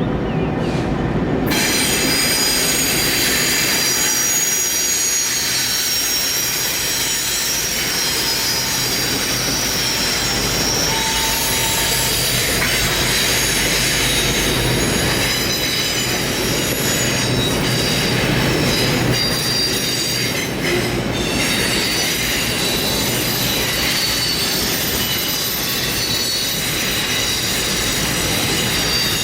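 A train rolling past with its wheels squealing against the rails: many high, steady squeal tones that come in about a second and a half in, over a continuous rumble of the cars.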